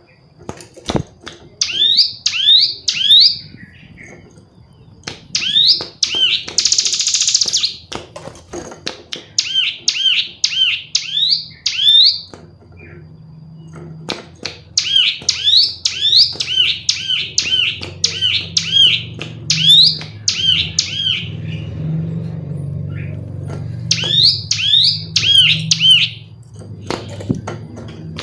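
Female ciblek gunung (a prinia) calling: rapid runs of high, upswept chirps in bursts of several notes, broken by short pauses, with one harsh buzzy note about seven seconds in. A low steady hum and a few faint clicks lie underneath.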